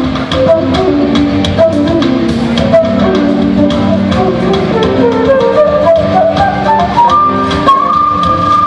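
Live rock band playing, with drums and guitar. A lead line climbs step by step from about five seconds in and settles on a long held high note near the end.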